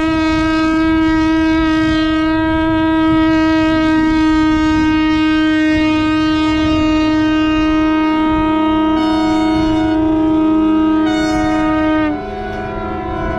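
Several boat horns sounding long, steady blasts together as a horn salute. The loudest horn holds one note for about twelve seconds, then cuts off while others carry on.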